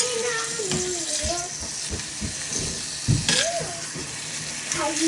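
Pork sizzling in oil in a small iron pot, a steady hiss, with a few sharp clicks of a spoon against the pot, the loudest about three seconds in.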